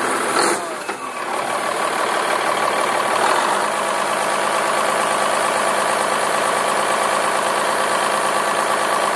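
Caterpillar 3406E inline-six diesel engine running steadily, freshly tuned with valves, injectors and jake brake adjusted. About half a second in there is a sharp click and the level dips briefly before the engine sound settles back to steady.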